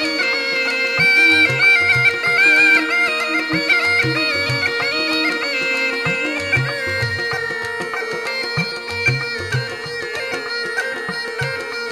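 Murli, the Rajasthani double pipe, playing an ornamented, bending melody over its own steady drone, with drum strokes keeping time underneath.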